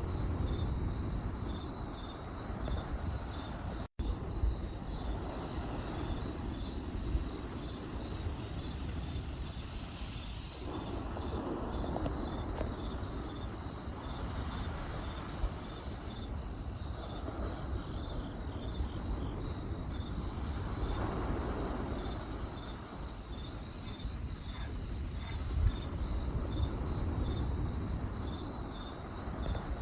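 Crickets chirping in a steady, pulsing high trill over a low rumbling background noise that swells and fades. A few faint pops of a crackling campfire come through, and the sound drops out briefly about four seconds in.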